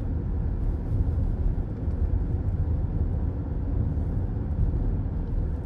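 Steady road noise heard from inside a moving car's cabin: a low tyre and engine rumble at highway speed.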